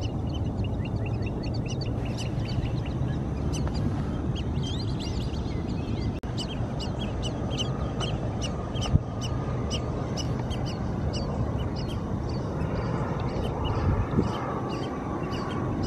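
A flock of birds calling, many short high calls coming thick and fast through the middle, over a steady low rumble of wind on the microphone. A single sharp knock about nine seconds in.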